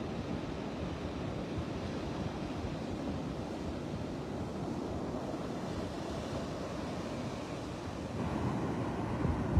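Surf washing onto a beach, mixed with wind buffeting the microphone: a steady rushing noise that grows a little louder about eight seconds in.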